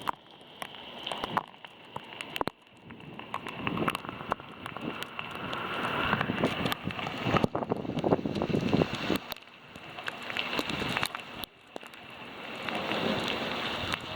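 Thunderstorm rain and gusting wind, rising and falling in several swells, with the gusts buffeting the microphone and many sharp ticks of drops striking.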